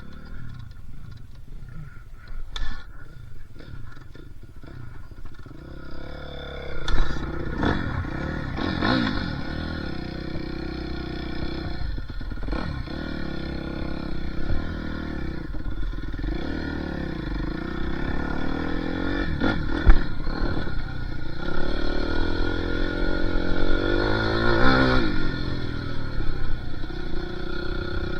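Dirt bike engine running and revving, quieter at first and then louder from about six seconds in, its pitch sweeping up and down as the throttle is worked. Two sharp knocks come through, one about seven seconds in and one about twenty.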